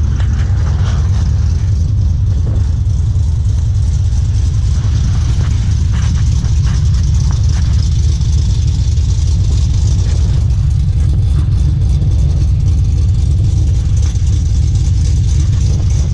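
Chevrolet LS V8, rebuilt with an aftermarket cam, LS7 lifters and Z06 valve springs, running steadily at a constant speed.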